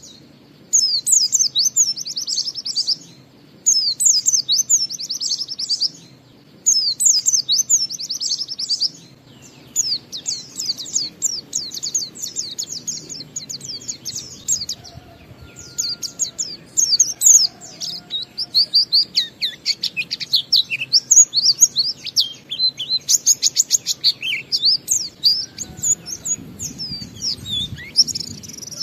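A pleci (white-eye) singing its continuous 'ngalas' song. It opens with three rapid, high trilled phrases of about two and a half seconds each, with short gaps between them. From about ten seconds in it turns into a long unbroken run of fast, varied twittering.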